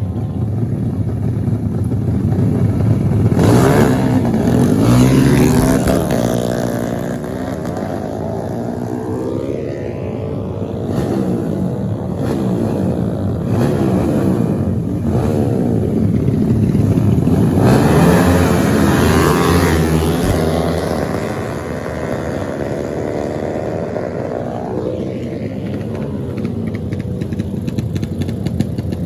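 Racing motorcycle engines revving, their pitch rising and falling as the bikes accelerate and shift. The engine sound swells louder twice, a few seconds in and again past the middle, as bikes come close.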